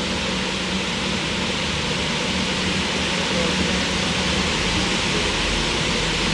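Steady rushing background noise inside an aquarium's penguin-exhibit boat ride, with a constant low hum underneath.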